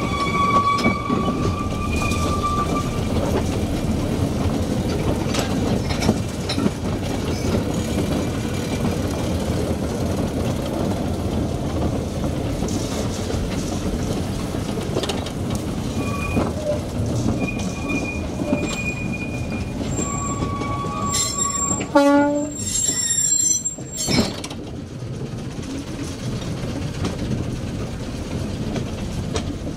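Small narrow-gauge locomotive hauling a wagon along the track: a steady running rumble of engine and wheels on rail, with thin, high wheel squeals now and then. A loud, harsh squeal-like burst comes about two-thirds of the way through.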